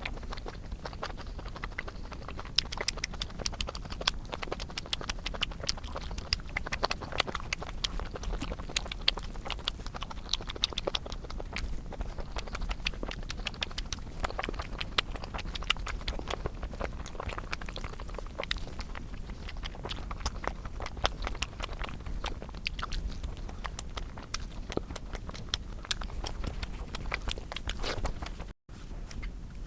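Close-miked eating of rice and curry: steady chewing with many wet mouth clicks and smacks.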